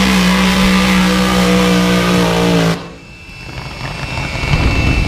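Drag racing car engine at full throttle, held at a steady high pitch, cutting off suddenly a little under three seconds in; a lower, rough rumble then builds up.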